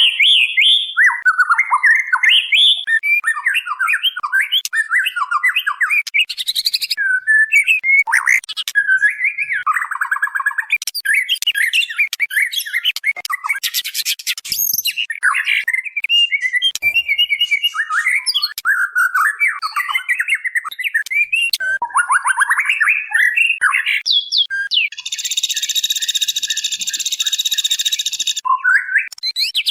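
White-rumped shama (murai batu) calling and singing in rapid, varied whistled and chattering phrases with hardly a pause, with a few harsh rattles. These are the calls of a female shama calling a male, used as a lure to provoke males into answering. A steady buzzing note runs for about three seconds near the end.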